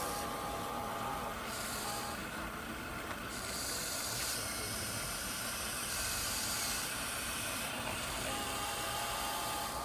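Radio-controlled 1/14-scale model trucks running on dirt: a steady hiss with a faint, even whine that comes and goes.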